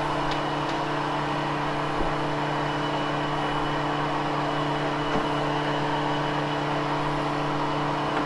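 Hoover Hushtone upright vacuum running steadily while grooming a freshly cleaned carpet, its motor giving a steady hum, with a couple of faint clicks.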